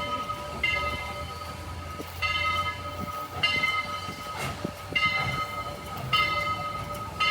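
Train at the tracks, with a steady high tone and a bright ringing chord that sounds for about half a second and repeats roughly every second and a quarter, over a low rumble.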